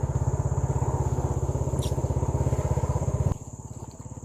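Motorcycle engine running with a rapid, even low pulse, then cut off abruptly about three seconds in. A steady high-pitched insect call carries on throughout.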